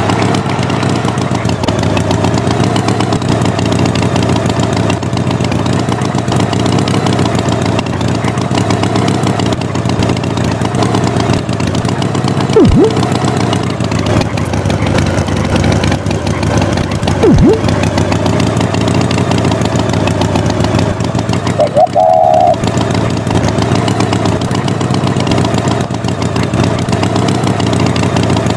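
Tractor engine running steadily, with two brief sharp chirps about halfway through and a short higher tone a few seconds after them.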